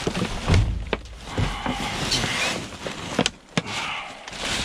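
Rummaging through discarded goods in a dumpster: plastic bags and packaging rustling, with a heavy thud about half a second in and a couple of sharp knocks a little past three seconds.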